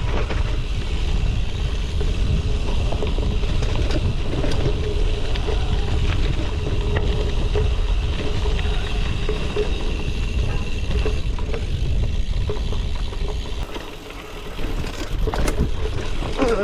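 Gravel bike rolling over a gravel trail, with wind buffeting the GoPro microphone: a steady low rumble that eases off briefly about fourteen seconds in, with a few clicks near the end.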